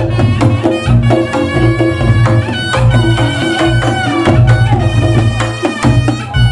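Reog Ponorogo gamelan accompaniment: kendang drumming and struck percussion with a loud, reedy slompret playing a wavering held-note melody over it.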